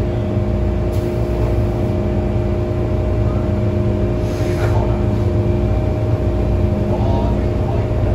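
Hong Kong MTR M-train electric multiple unit standing at the platform with its doors shut, heard from inside the car: a steady electrical hum over a low rumble. About seven seconds in, a few short rising whines begin, as the train starts to move off.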